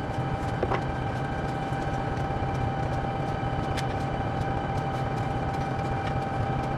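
Locomotive's 16-cylinder diesel engine running steadily, a low drone with a steady high whine over it. A couple of light clicks come through.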